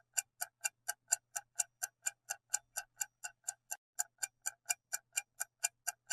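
Clock-ticking sound effect marking the countdown while the quiz question waits for an answer: sharp, evenly spaced ticks, about four a second.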